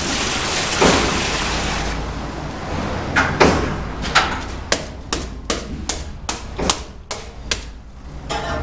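A mason's steel trowel mixing premixed cement mortar in a rubber tub: a scraping hiss at first, then a run of sharp, irregular knocks and taps, several a second.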